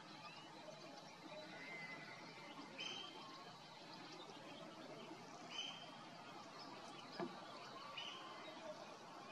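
A bird calling, one short call repeated three times, two and a half to three seconds apart, over faint outdoor hiss. A single sharp click comes about seven seconds in.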